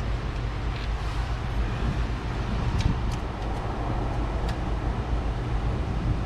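Steady low hum of workshop background noise, with a few faint light clicks.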